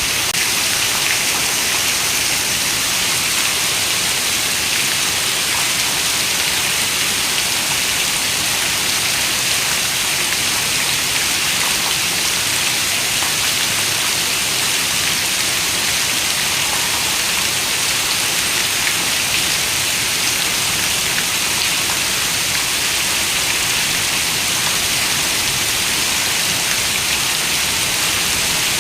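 Steady rain: an even, unbroken hiss of falling rain with a fine patter of drops, strongest in the high range, with no thunder or other events.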